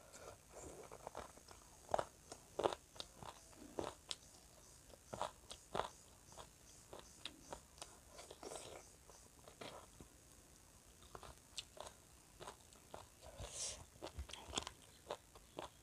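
Close-miked chewing of a mouthful of rice and curry eaten by hand: irregular wet mouth clicks and smacks, several a second, with a few louder snaps.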